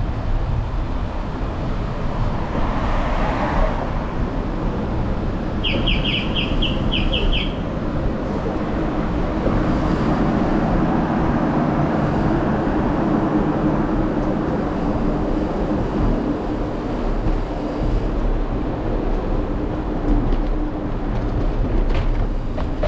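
Steady rumble and wind noise of a bicycle ride over a rough pedestrian lane, with road traffic around. A quick run of about seven high chirps comes about six seconds in.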